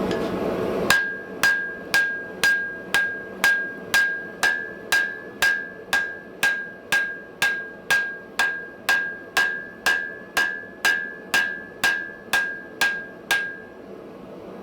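Steel hammer striking hot iron on an anvil in an even rhythm of about two blows a second, each blow leaving a short ringing note, stopping shortly before the end. A steady roar of a gas forge runs underneath.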